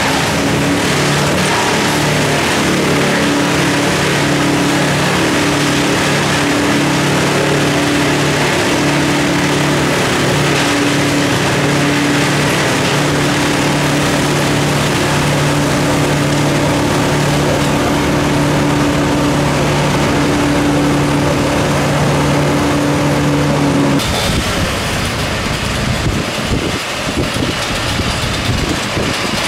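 An engine running steadily at constant speed, a loud, even drone. About 24 seconds in it cuts abruptly to a rougher, more uneven mechanical sound.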